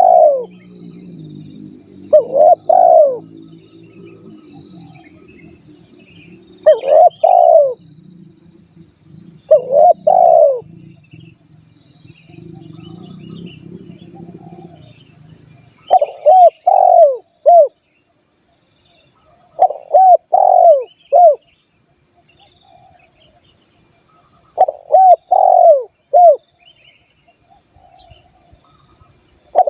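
Spotted dove (tekukur) cooing in repeated phrases of two or three swooping notes every few seconds, the phrases growing to three notes about halfway through. A steady high buzz runs underneath.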